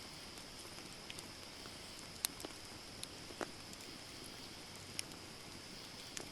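Wood campfire burning with a steady hiss and scattered sharp pops and crackles, about half a dozen, the loudest a little over two seconds in.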